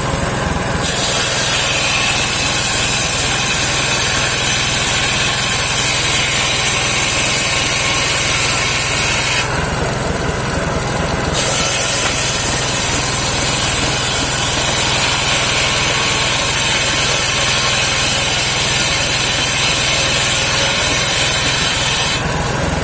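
Engine-driven homemade circular sawmill cutting saman (rain tree) wood. The engine runs steadily, and over it a high cutting whine runs in two long passes, broken by a pause of about two seconds around ten seconds in, and drops out again just before the end.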